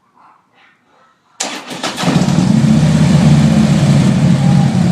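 A 2014 Harley-Davidson Street Glide's V-twin, fitted with Freedom Performance aftermarket exhaust pipes, is cranked on the starter about a second and a half in. It catches within half a second and settles into a loud, steady idle.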